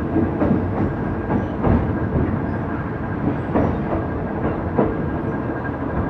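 Passenger train carriage running along the track, heard from its open window: a steady rumble with irregular clacks as the wheels cross rail joints.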